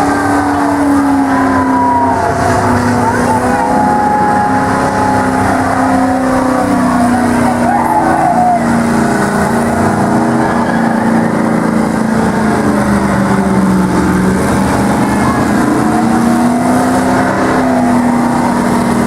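Several race car engines running together on a speedway oval, their pitches rising and falling as the cars accelerate and lift through the laps.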